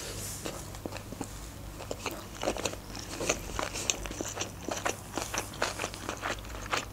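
A person chewing a mouthful of sushi roll: a run of short, uneven mouth clicks.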